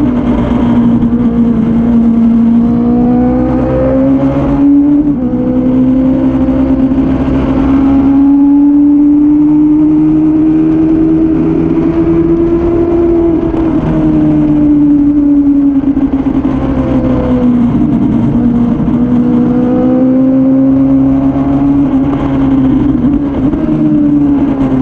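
Suzuki Bandit 600's inline-four engine running hard on track, its pitch climbing slowly for several seconds, then dropping about halfway through and rising and falling again as the bike accelerates and slows through corners.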